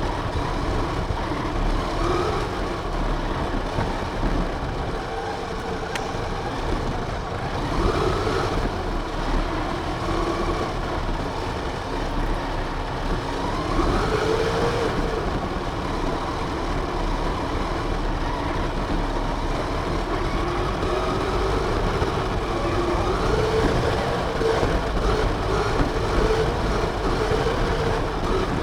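RC car's motor and drivetrain heard from the car itself: a whine that rises in pitch with each burst of speed, four or five times, over a steady rumble of the wheels and chassis on the ground.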